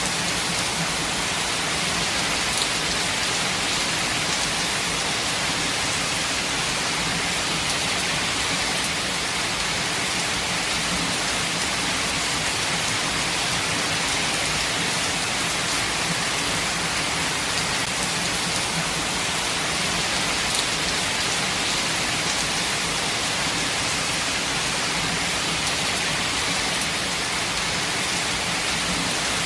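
Steady, even rainfall with a hiss of many drops and occasional louder individual drops.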